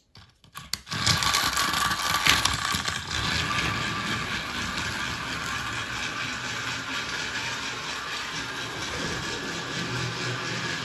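Battery-powered motorized toy train switched on with a few clicks, then its small motor and gears running steadily about a second in.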